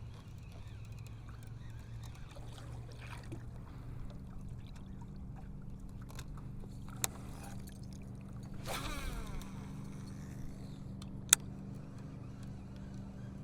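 Boat motor running at a steady low hum, with a few sharp clicks and a brief whir about nine seconds in.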